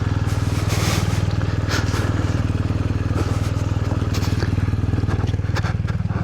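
Motorcycle engine idling steadily, with scattered short crunching clicks over it.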